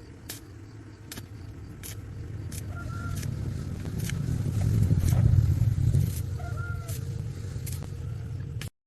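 A low engine rumble swells to its loudest about halfway through and then fades, like a motor vehicle passing. Sharp taps or clicks come every second or so, and two short chirps are heard. The sound cuts off abruptly just before the end.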